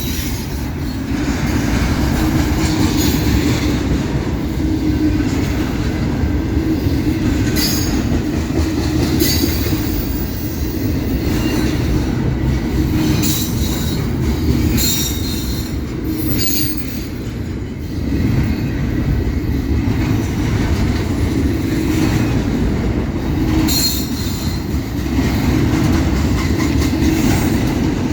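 Cars of a long CSX intermodal freight train rolling past close by: a steady rumble of wheels on rail, broken by short high wheel squeals and clanks.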